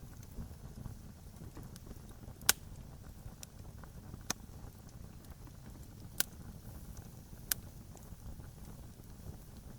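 Campfire burning, its wood crackling with scattered sharp pops, four of them loud, over a low steady rumble.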